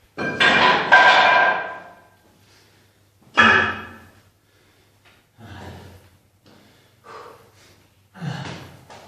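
Metal gym weights clanking: a loud ringing clank right at the start, another about three and a half seconds in, and a few fainter knocks after, each ringing out briefly.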